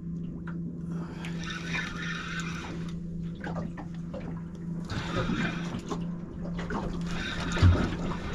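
Water lapping and splashing against a small boat's hull in irregular surges, over a steady low hum, with a dull knock near the end.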